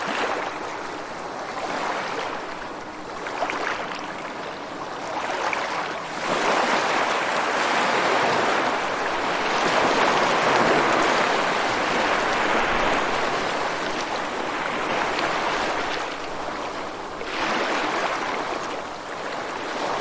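Ocean waves breaking and washing on a shore, a steady hiss that swells into a long surge a few seconds in, eases off, and rises again briefly near the end.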